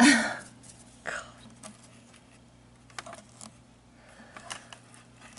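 A short breathy burst, a smaller one about a second later, then scattered light clicks and rustles from handling the vacuum's brush roll while picking hair and thread out of it.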